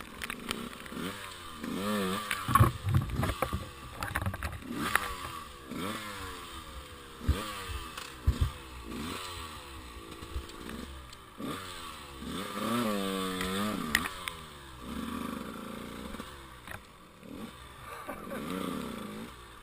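Enduro motorcycle engine revving in repeated short bursts, each rise in pitch falling back, with one slower dip and climb in revs about two-thirds through. Several sharp thumps and knocks come in among the revs.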